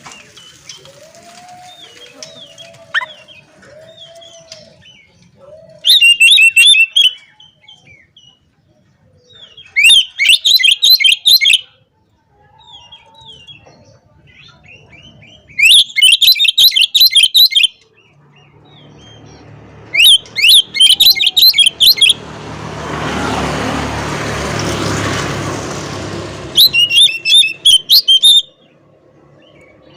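Oriental magpie-robin singing loudly in five bursts of rapid, fast-repeated high notes, each lasting a second or two, with quieter twitters between. A broad rushing noise swells and fades between the fourth and fifth bursts.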